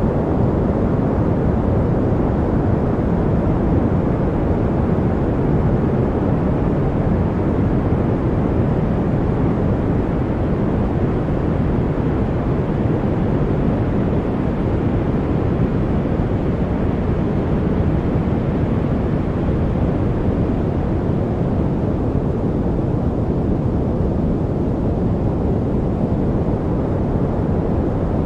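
Steady noise track meant as white noise for studying: an even rushing hiss weighted toward the low pitches, with little treble and no changes.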